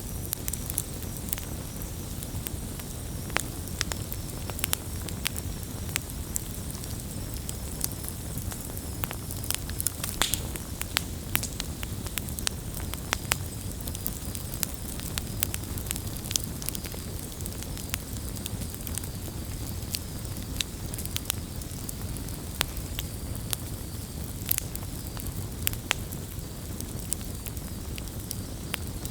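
Wood campfire burning, with frequent sharp, irregular crackles and pops over a steady low rumble.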